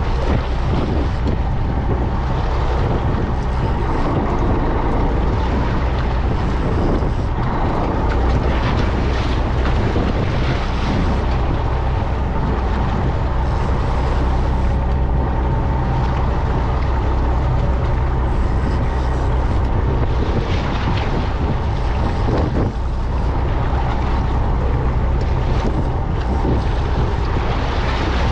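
A fishing boat's engine running steadily with a constant low hum, under the rush of wind on the microphone that swells and eases in gusts, and water noise.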